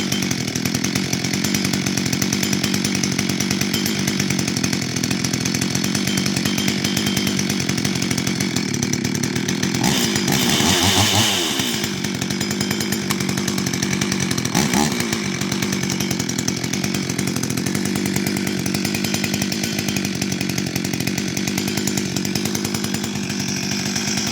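Stihl MS 440 two-stroke chainsaw running at a steady idle through a muffler modified with an extra exhaust port. About ten seconds in the throttle is blipped, and the engine rises and falls in pitch for a second or two. A shorter blip follows about five seconds later.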